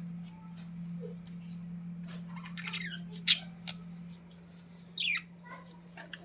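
A bird gives a short, fast, falling call about five seconds in. Scattered clicks and scratchy rustling, with one sharp click in the middle, sound over a steady low hum.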